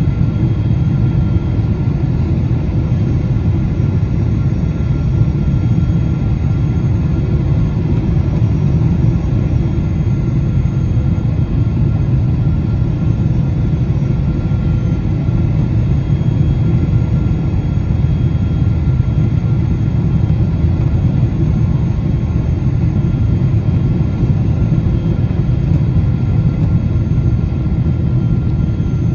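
Boeing 777-200 cabin noise: a steady low rumble of engines and airflow with faint steady whining tones above it.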